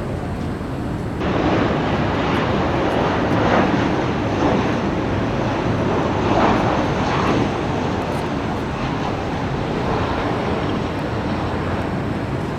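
Jet airliner engine noise, a loud rushing rumble that jumps suddenly louder about a second in and then swells and ebbs.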